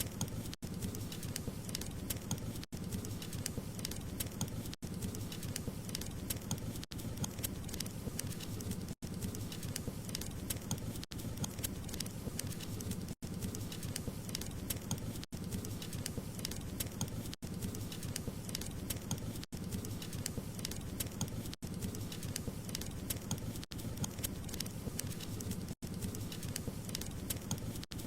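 Wood fire crackling and popping steadily over a soft low rumble of the flames, with very brief dropouts about every two seconds.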